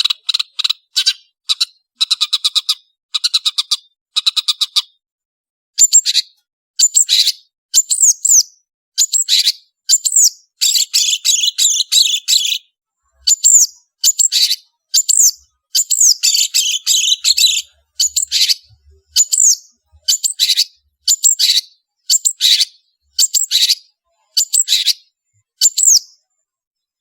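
Long-tailed shrike singing: rapid chattering trills of short, high notes, then about a second of pause and a run of sharp calls, about one a second, each with a downward-sweeping whistle, several packed into dense chattering bursts.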